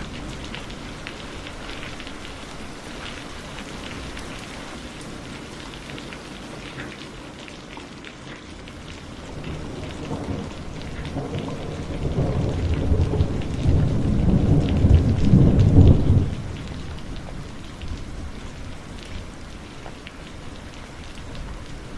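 Heavy rain falling steadily, with a roll of thunder that builds from about halfway through, peaks loudest a few seconds later and then ends fairly suddenly.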